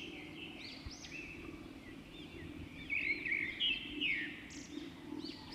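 Small birds chirping in quick, high, arching notes, busiest about three to four seconds in, over a faint steady hum.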